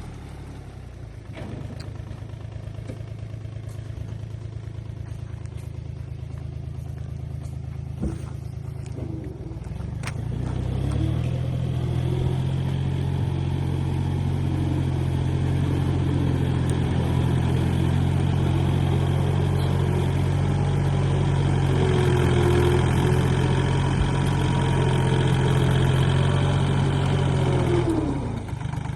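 An engine or motor running steadily. About ten seconds in it picks up speed and gets louder, holds there, then slows down near the end.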